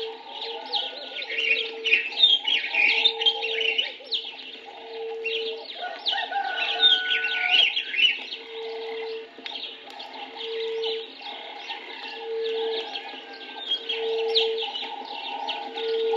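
Dense chorus of many birds chirping and trilling, with a single low hooting note repeated about every two seconds beneath it, as in an African dawn bush or farm atmosphere.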